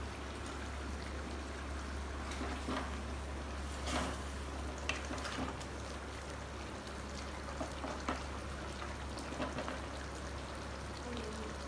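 Butter chicken gravy simmering and sizzling in a clay pot over a low steady hum, with a few short clicks scattered through.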